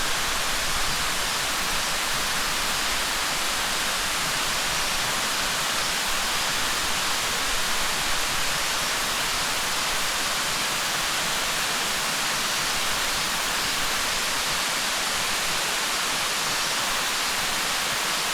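Tentaki waterfall's falling water: a steady, even rush, mostly hiss with little low rumble.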